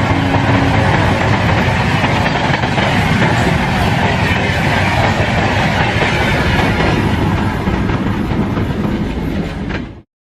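A train passing close at speed: a loud rush with rapid wheel clatter over the rail joints, and a steady low hum that fades in the first second. The sound cuts off abruptly near the end.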